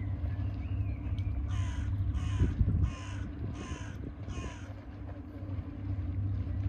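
A bird calling five times in an even series, harsh calls about two-thirds of a second apart, over a steady low rumble.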